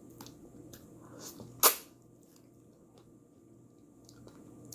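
Close-miked eating sounds: a few faint mouth clicks and one loud, short mouth noise about a second and a half in.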